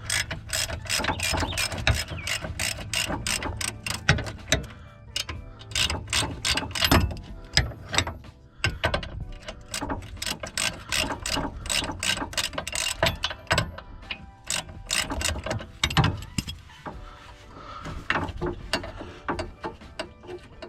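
Hand ratchet wrench clicking in quick repeated strokes, with brief pauses, as a 22 mm suspension bolt is backed out.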